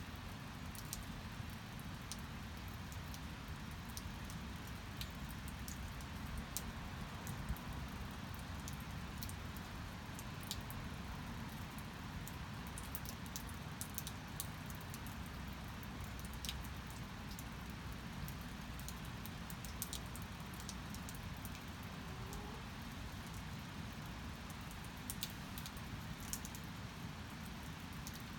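Steady rain: a constant even hiss, with many scattered sharp drops ticking on a surface.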